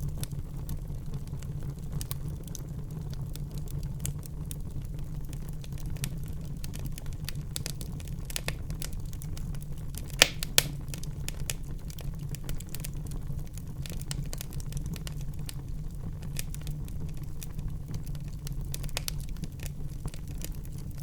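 Wood fire burning in a fireplace, a steady low rumble with frequent scattered crackles and two sharper pops about halfway through.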